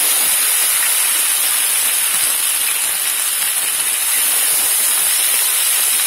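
Sliced onions with ginger-garlic paste and cumin frying in hot oil in a pan: a loud, steady sizzle.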